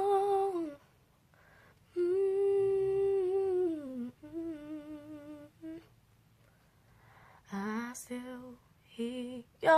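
A woman humming a slow melody alone, with no accompaniment: a few long held notes with a slight waver, broken by short pauses, then shorter notes near the end.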